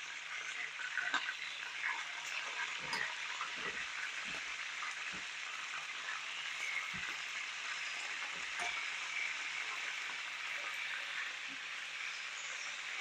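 Chicken pieces pan-frying in a pan on medium heat, sizzling steadily with scattered crackles and a few light knocks.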